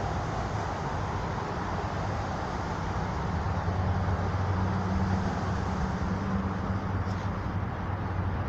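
Steady rumble of road traffic, with a low engine hum that swells slightly in the middle.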